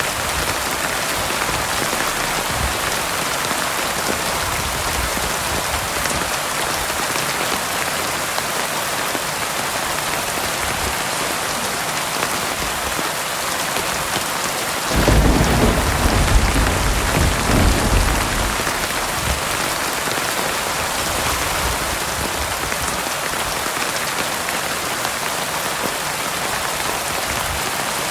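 Steady heavy rain pattering down, with a rumble of thunder starting about halfway through that lasts about three seconds and is the loudest moment.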